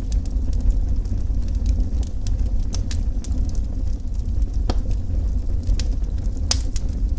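Wood fire burning with a steady low rumble and scattered sharp crackles and pops, the loudest about two-thirds of the way through.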